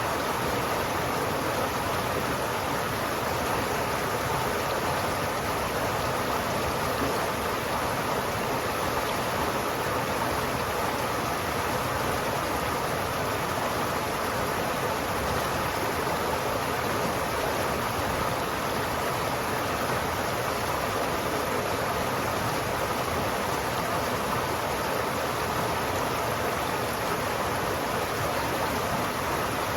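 River water flowing steadily, an even unbroken rushing with no distinct splashes.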